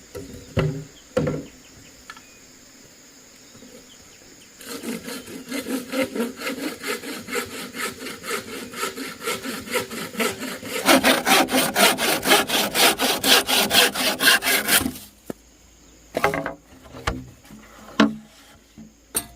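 Wood being cut with a hand saw in steady back-and-forth strokes, starting about five seconds in and growing louder for the last few seconds before stopping. Scattered knocks of wood being handled come before and after the sawing.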